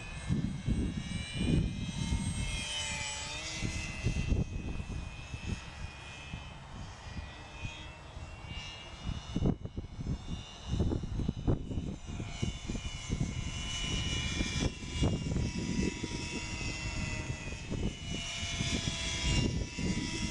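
Electric motor and propeller of a GWS Tiger Moth RC model biplane in flight: a high whine that bends up and down in pitch as the plane flies around. Gusty wind buffets the microphone throughout.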